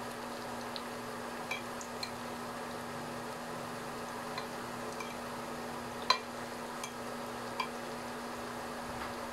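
Breaded sweet potato sticks sizzling steadily in hot oil in a stainless steel pan, with metal tongs clicking against the pan now and then as the pieces are turned; the loudest click comes about six seconds in.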